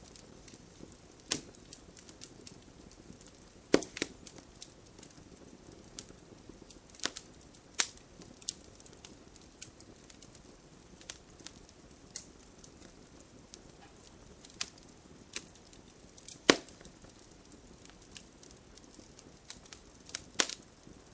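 Wood fire crackling in a fireplace, with sharp irregular pops, two of them louder than the rest, over a faint low hiss.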